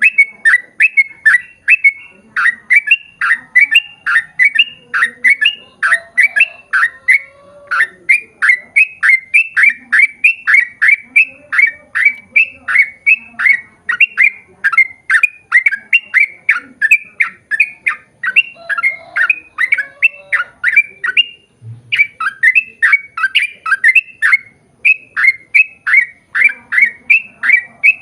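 Yellow-vented bulbul singing a long, rapid run of repeated bright notes, about three or four a second, with two brief breaks, about seven and twenty-one seconds in.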